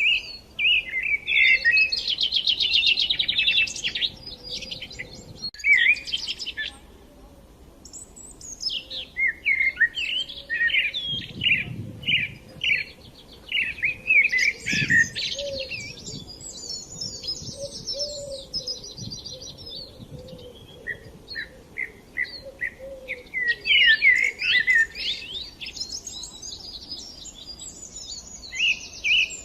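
Several small songbirds chirping and singing at once, overlapping fast trills and short sharp notes, with a brief lull about seven seconds in.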